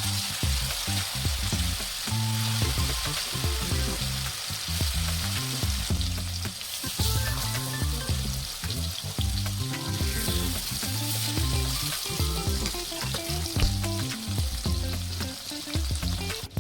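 Chicken frying in hot oil in a pan, sizzling steadily, with a spoon stirring and clicking against the pan now and then.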